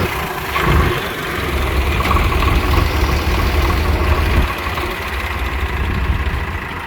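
Heavy diesel engine running at low revs, its low rumble easing somewhat about four and a half seconds in.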